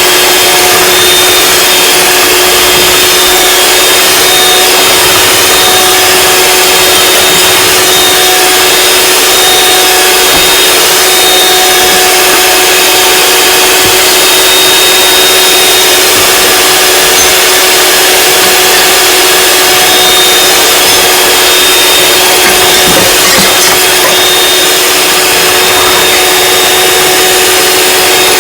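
Electric mixer running steadily with a constant motor hum, whipping egg whites and sugar into meringue that has not yet stiffened.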